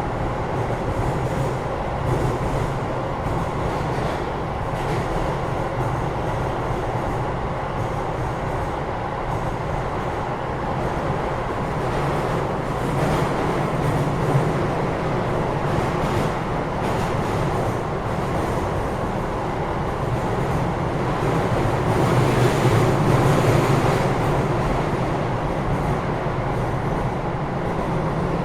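Interior running sound of a Keio 8000 series electric train, heard inside the car above the main controller: a steady rumble of wheels on rail. It swells louder about three quarters of the way through.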